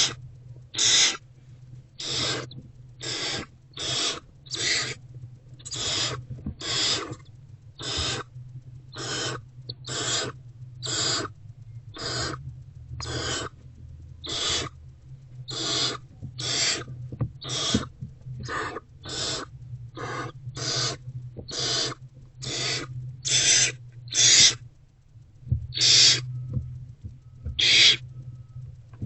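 Barn owlets' begging calls: a rasping hiss repeated about once a second, over a steady low hum.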